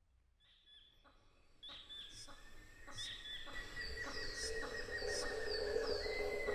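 Birds calling, fading in from silence: short high chirps that fall in pitch, repeated about once a second, over a steady high tone and a lower hum that swells in the second half.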